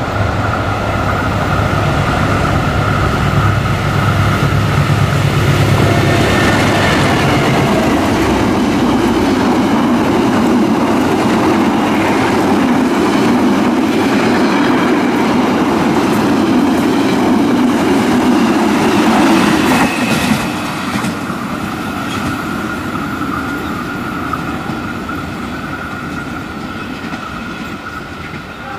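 Diesel-electric locomotive and passenger coaches passing close at speed. The engine hums low and loud for the first several seconds, then the coaches' wheels rumble on the rails. The noise drops suddenly about twenty seconds in and then fades as the train moves away.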